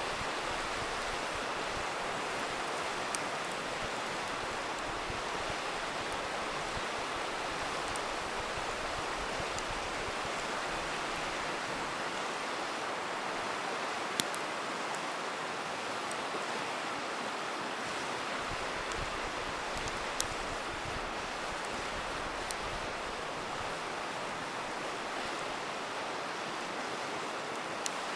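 A river rushing steadily, with the occasional sharp pop of a crackling campfire, about five in all, the loudest near the middle.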